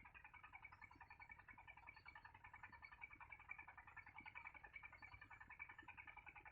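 Faint, steady chorus of rapid high chirps from small animals, unbroken throughout.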